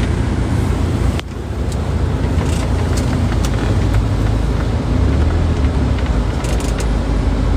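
Steady low rumble of a motor vehicle in motion, with a brief drop in level about a second in.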